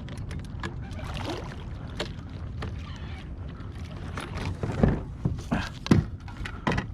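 Fighting a hooked fish from a fishing kayak: a steady low rumble of wind and water on the boat, scattered clicks of tackle, and several louder knocks in the last two seconds.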